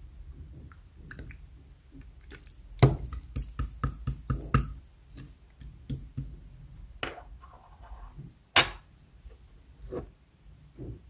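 Yellow clear slime being squeezed and pressed by hand, making sticky clicks and pops: a quick run of them a few seconds in, then two single loud pops later.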